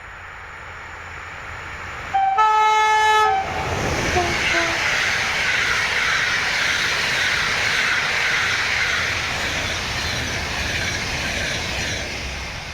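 A train sounds its horn once, a steady blast of a bit over a second about two seconds in. It then passes with a loud, steady rush of wheels on the rails, which eases near the end.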